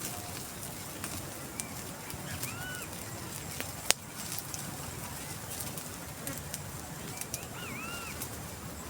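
Outdoor ambience with a bird calling twice, each time a few short arched whistles, once about two and a half seconds in and again about seven and a half seconds in. Scattered small clicks run underneath, and one sharp click a bit before the middle is the loudest sound.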